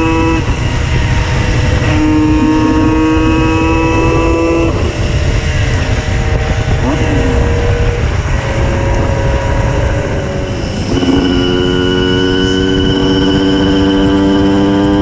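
Tuned 90 cc reed-valve two-stroke Simson moped engine running hard at high revs. Its pitch holds, then drops and rises again several times, and it stays high for the last few seconds, over a steady low rumble.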